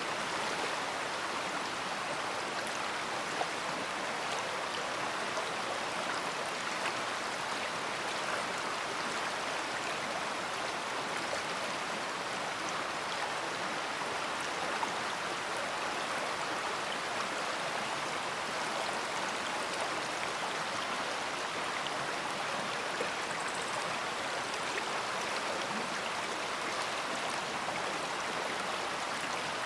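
A big river flowing, its water rushing with a steady, unbroken hiss.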